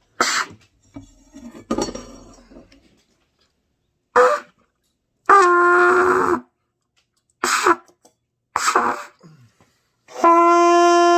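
Trumpet blown by a beginner: several short, breathy blasts of air that barely sound a note, then a held note of about a second that wavers at its start. Near the end comes a long, steady note, probably the 'sol' being practised.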